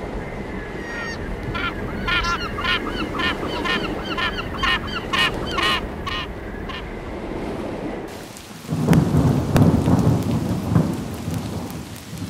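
A run of harsh, repeated bird calls, about two a second, over a steady wash of noise. About three quarters of the way through, a loud deep rumble sets in and lasts a few seconds.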